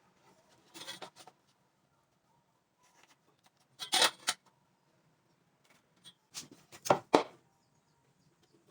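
Short knocks and clatters in three bursts, about one, four and seven seconds in, the last the loudest, typical of boards and tools being handled during woodworking.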